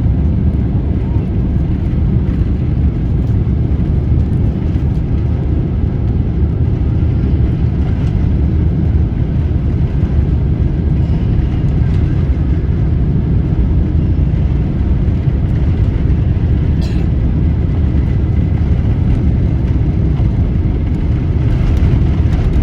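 Jet airliner cabin noise heard from a window seat: a loud, steady low rumble of the engines and airflow, growing slightly louder near the end.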